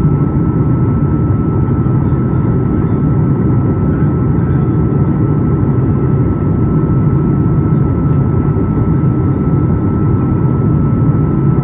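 Steady in-flight cabin noise of a Boeing 737 MAX 8: an even, loud rumble of its CFM LEAP-1B engines and the airflow, with a thin steady whine on top.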